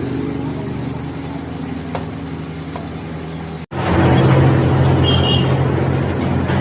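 Vehicle engine running steadily with a low, even hum. It breaks off abruptly about halfway through and comes back louder.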